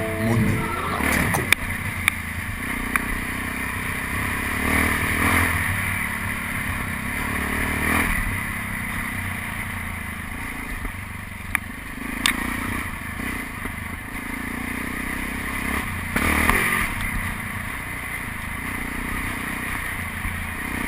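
Trail motorcycle engine running during off-road riding, with a few knocks and clatters.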